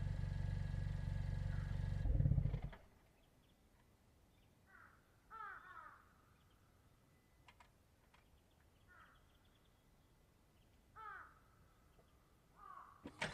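Suzuki Swift Sport ZC33S's 1.4-litre turbo four idling steadily through a Monster Sport Sp-X dual exhaust, stopping about two and a half seconds in. After that there is near silence, with a crow cawing faintly a few times.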